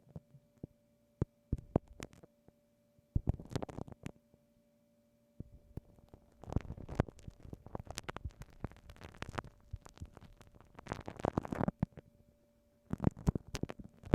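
Glue stick worked against a binaural microphone's ear, making irregular sticky clicks and crackly rustling in bursts with short pauses between, over a faint steady hum.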